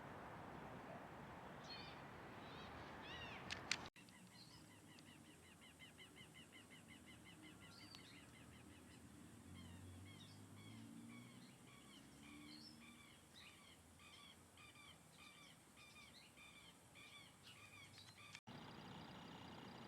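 Songbirds calling, faint: a few scattered chirps, then a rapid even trill of repeated high notes, then short chirps repeated about twice a second.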